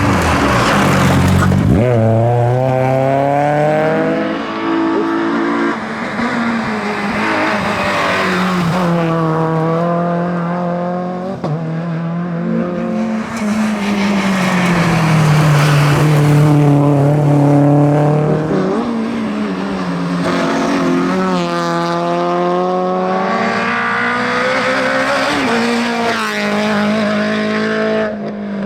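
Rally car engine driven hard on a stage: the revs climb through the gears, drop away on lift-off and braking, and climb again, over and over. There is a sharp falling pitch and a burst of noise about a second in, as of a car going past.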